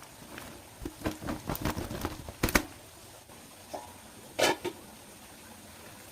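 A quick run of irregular taps and knocks, the loudest about two and a half seconds in, then one more sharp knock about four and a half seconds in.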